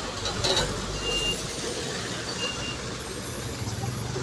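Heavy truck running, a steady low rumble, with a short hiss about half a second in and a few short high beeps like a reversing alarm.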